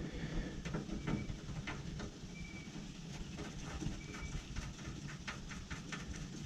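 Scattered light clicks and taps from hand work on the generator's bolts and panel, over a steady low rush of rain. There are three brief, faint high chirps.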